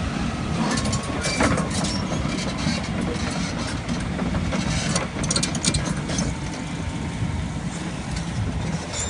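Diesel engine of a Volvo EC240 excavator running with a steady heavy rumble and scattered clicks and rattles; the excavator's turbocharger has failed.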